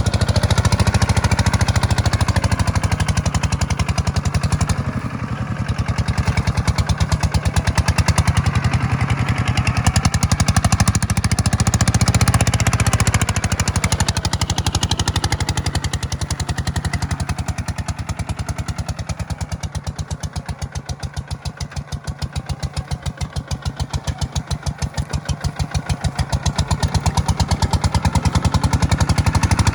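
Tractor engine running steadily under load while plowing, with an even rapid pulse. It drops in level for several seconds about two-thirds of the way through, then rises again near the end.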